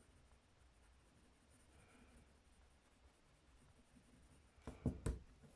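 Faint scratching of a coloured pencil on paper, then a few quick knocks near the end.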